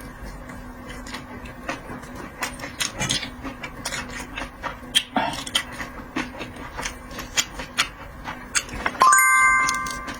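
Close-miked eating of seafood: chewing and the small clicks and crackles of shells and utensils. About nine seconds in, a sudden bright ringing ding fades out over about a second.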